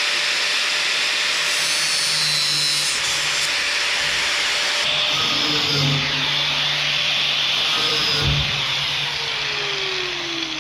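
Handheld electric power tool cutting a fence piece: its motor runs at a steady pitch under a harsh cutting noise, with a few changes in load, then is released about nine seconds in and its pitch falls as it winds down.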